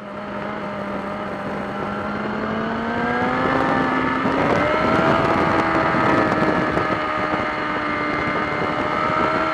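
Motorcycle engine pulling, its note rising steadily in pitch for the first four or five seconds and then holding level, over a broad rushing noise.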